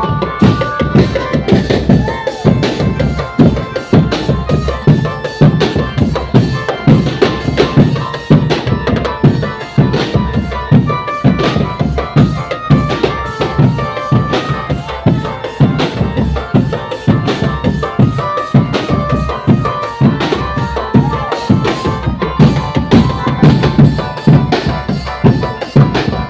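Indonesian drum band playing: a steady, driving beat of drums with a high melody line stepping from note to note above it.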